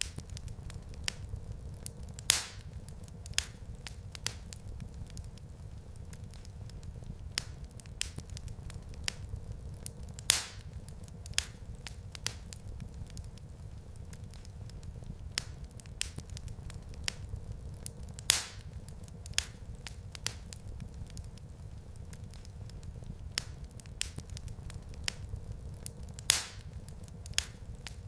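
Wood fire in a fireplace crackling: a steady low rumble of flames with frequent small snaps and four louder pops about eight seconds apart.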